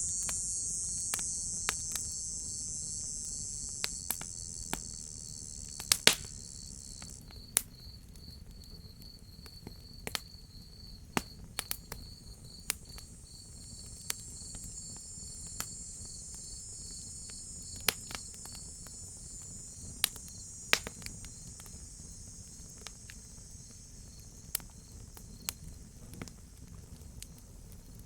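Crickets chirping in a steady, even pulse, with a higher insect chorus that cuts off about seven seconds in and comes back fainter later. A wood fire crackles over it with scattered sharp pops, the loudest a few seconds in.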